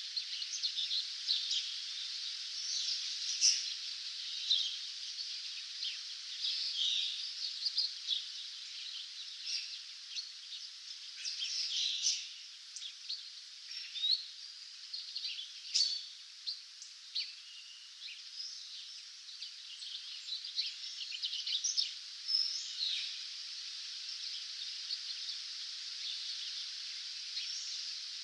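Songbirds chirping and trilling at dawn, many short calls overlapping continuously, over a steady high hiss.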